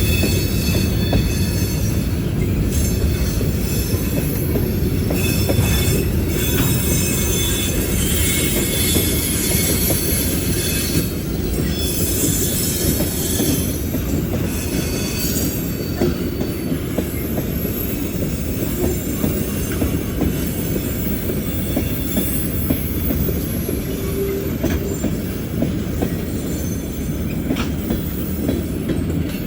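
Train cars rolling past on the rails: a steady low rumble of wheels with frequent clicks and high metallic wheel squeal, which is strongest about a third of the way through.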